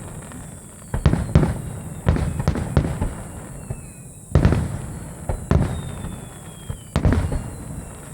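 Aerial firework shells bursting in a starmine display: about eight sharp booms in irregular clusters, each trailing off in a rumbling echo.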